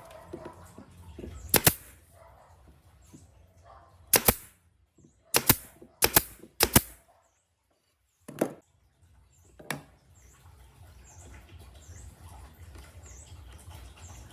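Seven sharp knocks at uneven spacing, with three close together between about five and seven seconds in, over a faint steady background.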